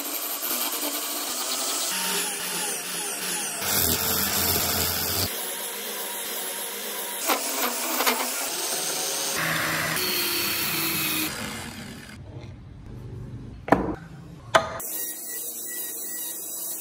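Woodworking tools on wood in a run of short edited clips, power tools running and wood being worked by hand, each clip cut off abruptly. Near the end come two sharp knocks about a second apart.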